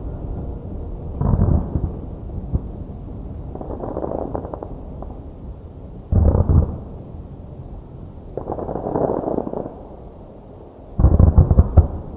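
Fireworks bursting: three heavy bursts about five seconds apart, with stretches of crackling between them. The last burst, near the end, is the loudest.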